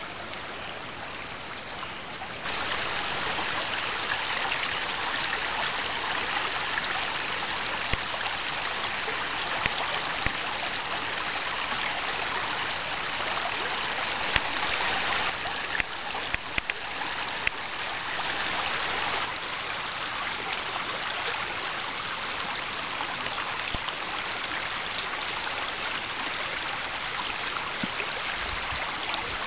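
Spring meltwater falling and rushing over a small waterfall in a steady, even stream of water noise, growing louder about two seconds in. A few sharp clicks are heard around the middle.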